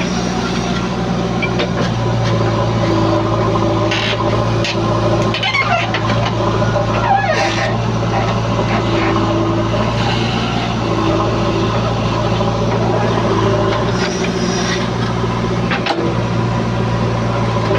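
Heavy diesel engine running at a steady speed, with a few brief noisy bursts partway through.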